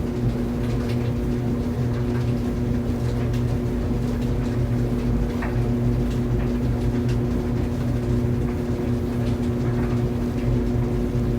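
Laundry dryer running: a steady motor hum with scattered light clicks and taps.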